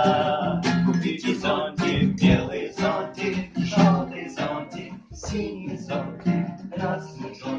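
Acoustic guitar strummed in a steady rhythm, accompanying a sing-along song.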